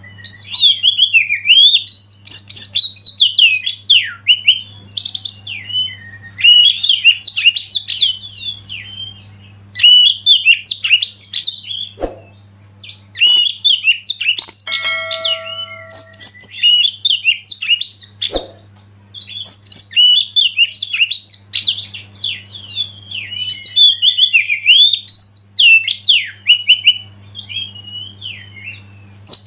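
Oriental magpie-robin singing in rapid, varied phrases of chirps and whistles, in bursts with short pauses, over a steady low hum. In a pause near the middle there are two sharp clicks and a brief steady pitched tone.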